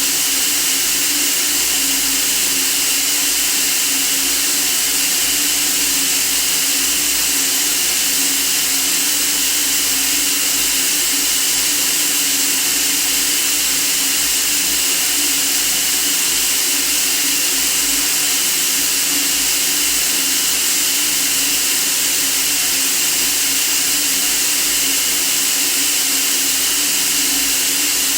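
Steady, unchanging white noise: an even hiss strongest in the high treble, with a faint low hum beneath it.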